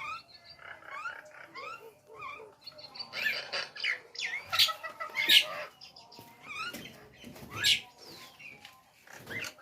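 Nias hill myna calling: a string of short rising whistles and chattering notes, with a few loud, harsh calls in the middle and one more towards the end.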